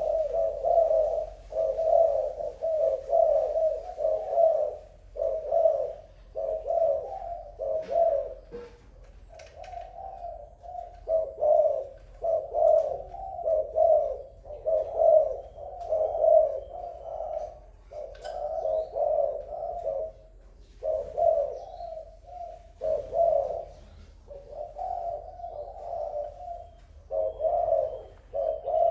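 Spotted dove cooing: a long run of low, repeated coo phrases with a few short pauses between runs.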